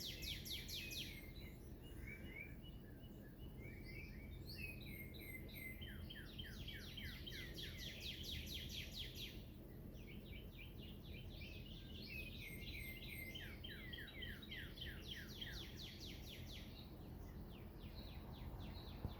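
Songbirds singing: repeated trills of quick, downward-slurred high notes, each run lasting a few seconds with short gaps between, over faint steady background noise.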